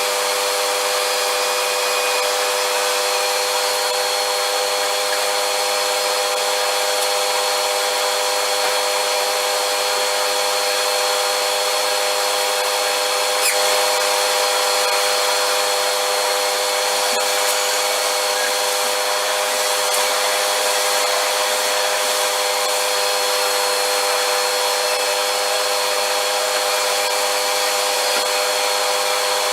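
Vacuum cleaner running steadily: a constant rush of air with a steady motor whine, and a brief click about halfway through.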